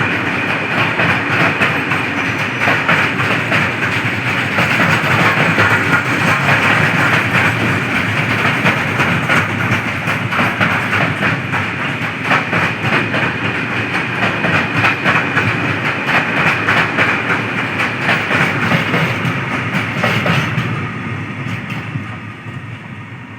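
A train passing at speed: a steady rush of wheels on rail with rapid clicks over the rail joints, which fades away about 21 seconds in.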